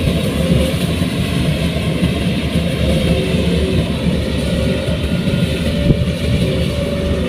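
Heavy farm machinery's diesel engine running steadily under load, with a brief knock about six seconds in.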